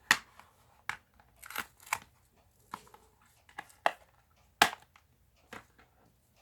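A series of sharp clicks and taps of hard plastic, about eight in all and the loudest near the start and about two thirds through: a clear-mount rubber stamp being picked up and set on a large acrylic stamping block.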